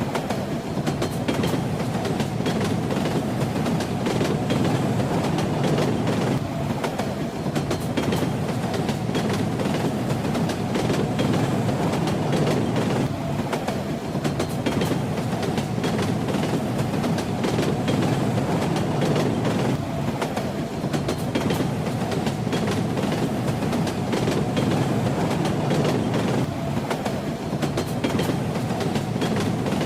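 Train running steadily on the rails: a continuous low rumble of the carriage with the rattle and clack of the wheels over the track.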